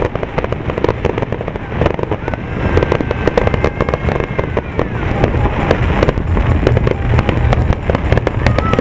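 Fireworks display: dense, rapid crackling and popping from many small bursts, over a steady low rumble of shell explosions.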